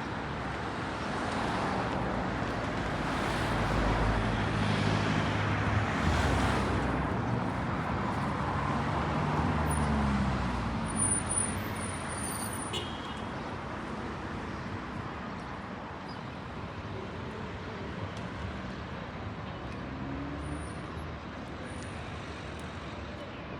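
Street traffic noise: a motor vehicle passes close by with a low engine hum that climbs in pitch about ten seconds in as it pulls away, followed by steadier background traffic.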